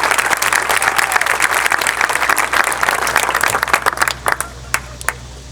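Audience applause, dense at first, dying away after about four seconds to a few scattered claps.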